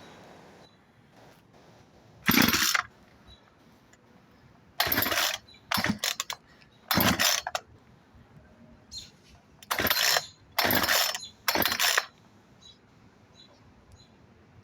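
The recoil starter of a 36 cc Craftsman chainsaw is pulled about seven times in short, sharp strokes, and the engine does not catch.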